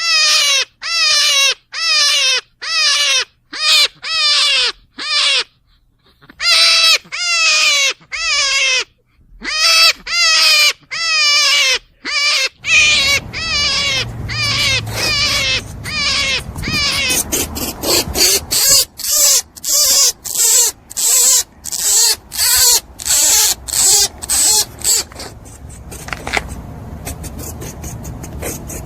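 An animal's repeated squealing calls, about two a second, each sliding down in pitch. About 13 seconds in, a steady background hiss joins and the calls come shorter and quicker.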